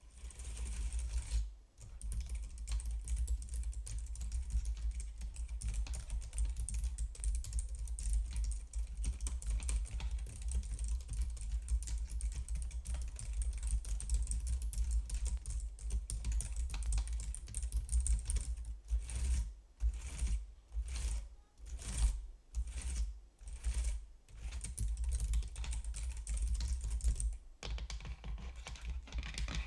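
Computer keyboard being typed on in fast, continuous runs of keystrokes, thinning into slower, separate keystrokes about two-thirds of the way through, with a short pause near the end.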